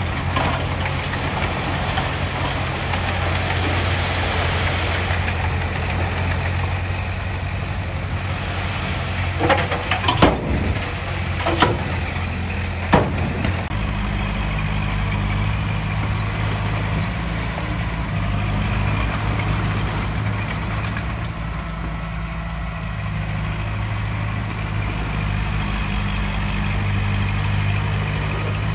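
Heavy diesel earthmoving machinery running steadily, with a few sharp knocks about ten to thirteen seconds in. After that the engine note gets deeper and heavier, as if under more load.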